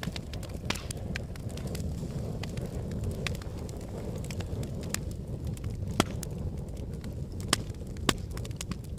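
Volcanic eruption: a steady low rumble with sharp cracks and clinks scattered through it, the loudest about two-thirds of the way in and twice more soon after.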